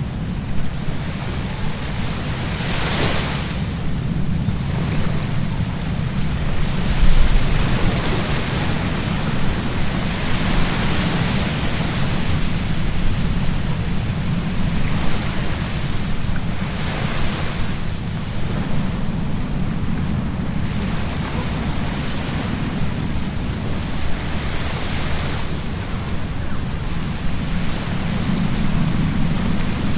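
Ocean surf breaking and washing up a beach, the hiss swelling every few seconds. Wind buffets the microphone throughout as a heavy low rumble.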